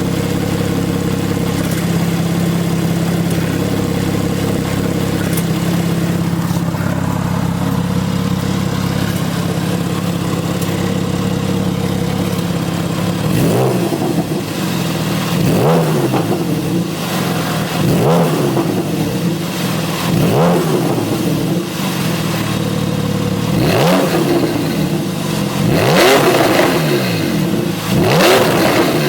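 Porsche 911 (991) Carrera 4S's 3.8-litre flat-six idling steadily through an aftermarket valved performance exhaust, then revved in a series of quick throttle blips, one every second or two, from about halfway through.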